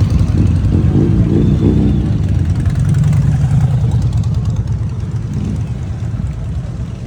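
Motorcycle engine running with a low rumble that gets a little quieter toward the end.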